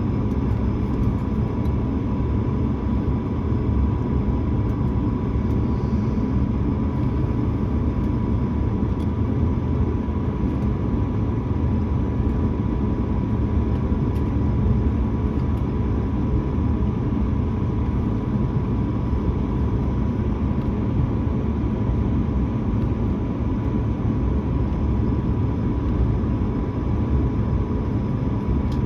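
Steady cabin rumble inside an Airbus A220-300 with its engines running on the ground, with a thin, steady high tone over it. The level holds even throughout, with no spool-up.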